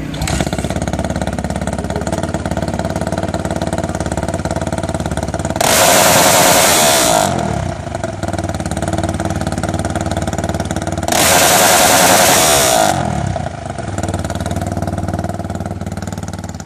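Honda CRF450 (2014) motocross bike's single-cylinder four-stroke engine running with no exhaust fitted. It idles, is twice revved hard up to the rev limiter and held there for about a second and a half each time, then drops back to idle.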